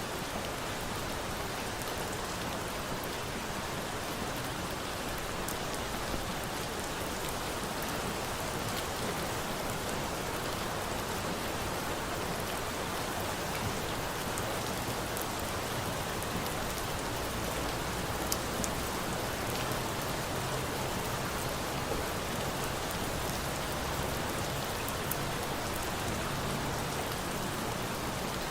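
Steady rain falling, with a few faint sharp clicks scattered through it.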